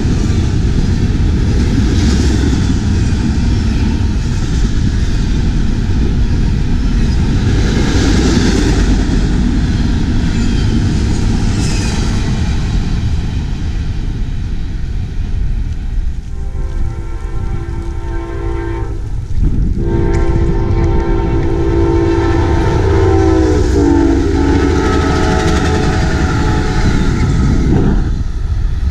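Double-stack container freight train rolling past, a steady rumble of wheels on rail. Then a passenger train sounds its air horn in two long blasts, the chord dropping in pitch near the end of the second as the train passes, and rumbles by.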